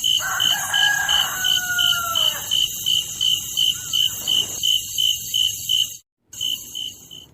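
A rooster crows once, a drawn-out call falling slightly in pitch, over insects chirping in a steady rhythm of about three chirps a second and a constant high hiss. The sound cuts out briefly near the end.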